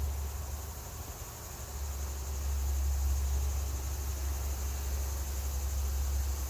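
Low rumble of wind on the microphone, with insects trilling steadily at a high pitch behind it.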